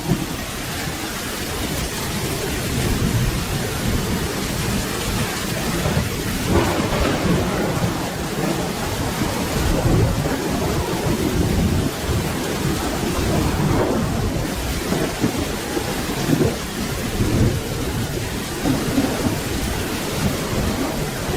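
Steady rain falling, with thunder rumbling low underneath that swells and fades without a sharp crack.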